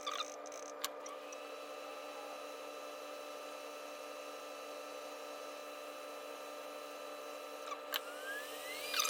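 Steady hum and whine of soldering bench equipment, several fixed tones at once, with a few light clicks. Near the end one whine rises in pitch and settles at a higher note.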